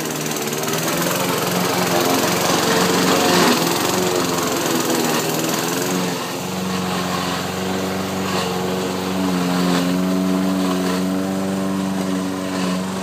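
Honeybee swarm buzzing loudly at its nest: a dense hum of many wingbeats, several pitches drifting up and down, growing steadier about halfway through.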